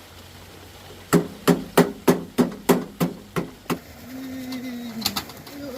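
Hammer blows, nine in a steady run at about three a second, each with a short ringing tail, followed by a brief low hum.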